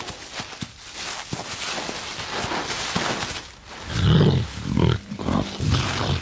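Jaguar growling in several low, rough bursts in the second half, after a few seconds of noisy scuffling, while it struggles with a caiman.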